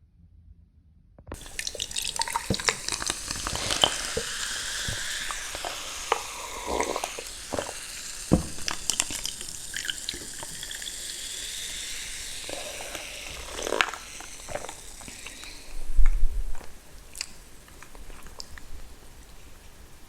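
Close-miked eating sounds: wet, juicy mouth and food noises with many small clicks, starting about a second in, and a low thump near the end.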